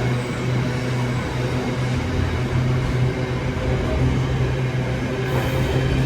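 A diesel train's engine running steadily with a low hum, neither rising nor falling.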